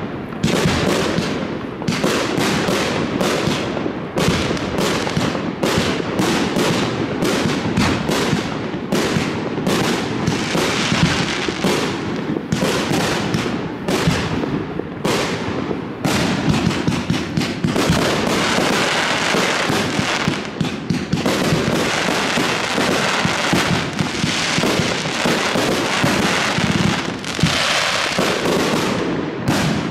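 A consumer firework cake firing a rapid, continuous series of shots, several bangs a second. The launch thumps and bursting reports overlap into a dense barrage through the second half, then thin out near the end.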